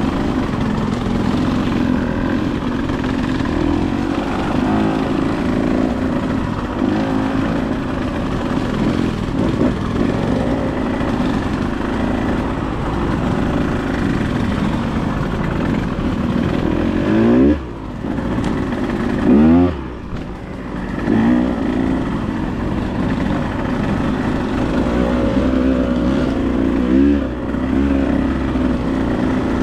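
Dirt bike engine running under way, with the throttle blipped several times in rising revs, most sharply a little past halfway and again near the end.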